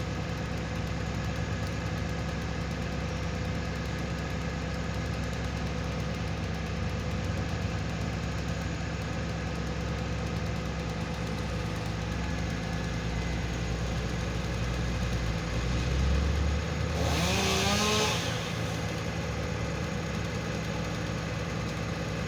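Engine of tree-cutting machinery running steadily with a low hum. About sixteen seconds in it grows louder with a rising pitch and a harsh hiss for a couple of seconds, then settles back to the steady hum.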